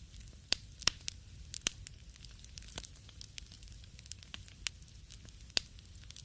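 Wood fire crackling in a fireplace: irregular sharp pops and snaps over a faint low hiss, the loudest coming about half a second and a second in and again near the end.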